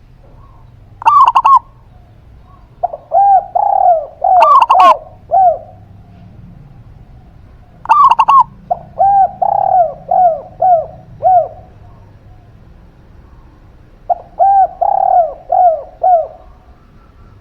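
Zebra dove and spotted dove cooing in turn. Three short, very loud calls, about a second in, midway and near the middle, alternate with three phrases of five or six quick, arched coo notes.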